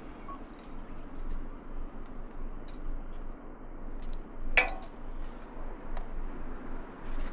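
Train running on the rails: a steady rumble with scattered light clicks and one sharp metallic click a little past halfway.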